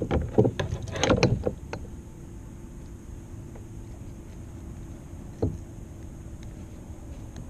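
Knocks and rattles on a kayak while a freshly landed catfish is handled aboard: a quick cluster in the first two seconds, then one more knock about five seconds in.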